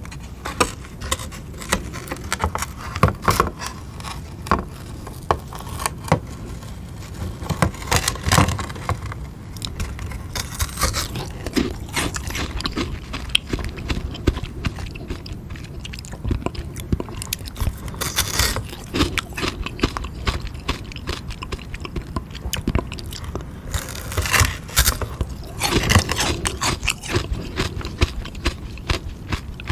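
Close-up biting and chewing of a frozen sugar-water ice lolly: a dense run of crisp crunches and scraping crackles of ice, with several louder stretches of crunching.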